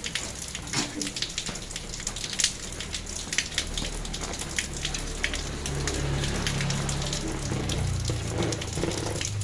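Rain falling on a paved road: a steady hiss with many sharp drop splats. A low rumble comes in a few seconds in and grows louder toward the end.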